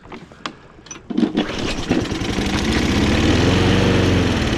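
Toro Recycler push mower's small engine catches about a second in on a little squirt sprayed into the carburetor. It revs up briefly and starts to slow near the end, running only on the squirt rather than on its own fuel supply.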